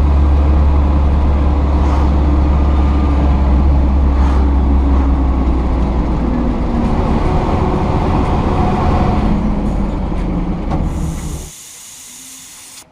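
Lada Niva's four-cylinder engine and drivetrain as a loud, steady low rumble with a faint drone, heard from the car. About eleven seconds in the rumble cuts off suddenly, leaving a short high hiss.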